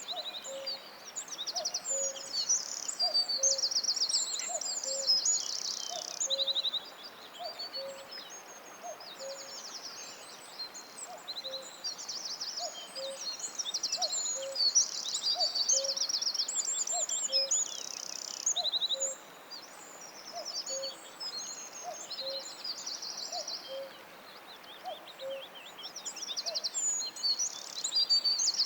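A chorus of songbirds singing in a forest, with many fast, high trills and chirps overlapping. A low two-note call, the first note higher and the second lower, repeats steadily about once every second and a half beneath it and stops a few seconds before the end.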